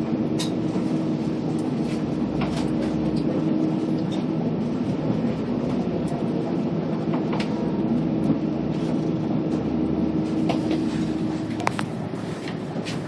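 Scania K280UB city bus on the move, heard from inside: a steady diesel engine hum with scattered rattles and clicks from the bodywork, easing off slightly near the end.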